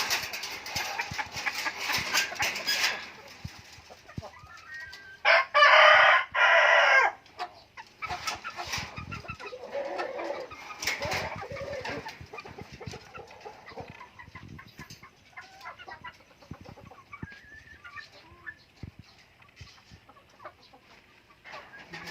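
Chickens clucking, with a rooster crowing once, about two seconds long and loud, starting around five seconds in. Scattered clicks and knocks sound among the clucks.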